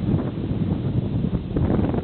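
Wind buffeting the microphone, an uneven low rumble that swells and dips.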